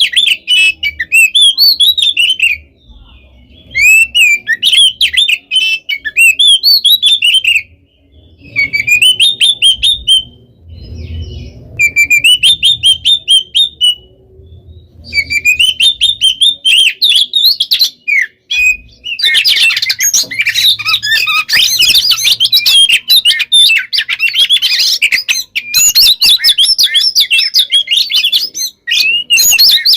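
Oriental magpie-robin (kacer) singing loudly: a rapid, varied whistled song full of mimicked phrases. It comes in phrases with short pauses at first, then runs on without a break from about two-thirds of the way in.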